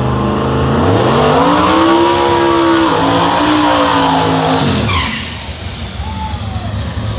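Drag-racing engine under full throttle: the pitch climbs steadily, drops once near three seconds as if shifting gear, holds, then cuts off abruptly near five seconds.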